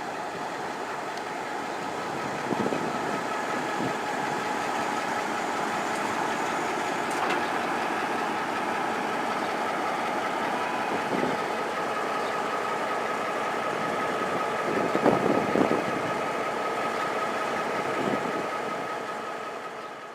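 EMD G22 diesel-electric locomotive running light, its diesel engine running steadily with a held whine, and a few irregular thumps, loudest about fifteen seconds in.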